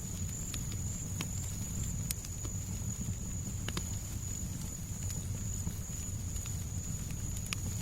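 Fireplace fire crackling: scattered sharp pops over a steady low rumble and hiss, with a thin steady high tone throughout.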